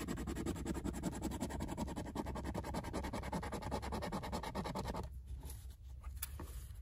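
A scratch-off lottery ticket being scratched in rapid, even strokes; the strokes stop about five seconds in and only a few scattered scratches follow.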